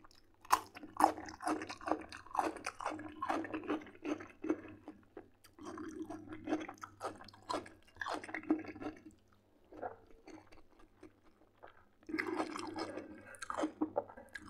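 Close-up chewing of a bitten-off mouthful of fresh cucumber, with crisp crunching densest in the first few seconds. The chewing then goes on more softly and sparsely, with another spell of crunching near the end.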